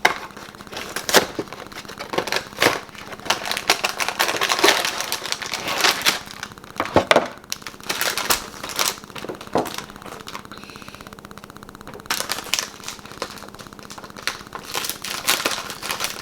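Plastic cookie packaging crinkling and crackling in irregular handfuls as it is opened.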